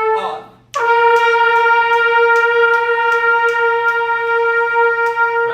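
Marching band brass and woodwinds holding one long sustained note in unison. The note breaks off just after the start and comes back in under a second later. A steady tick sounds over it about two and a half times a second.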